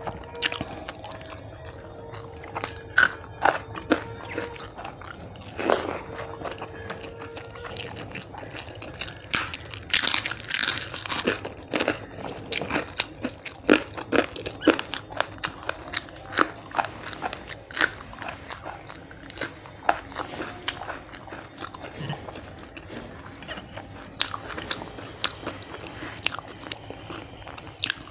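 Close-miked eating of hand-mixed rice and fried fish: steady chewing with irregular crisp crunches and sharp mouth clicks. The crunches come thickest and loudest about ten seconds in.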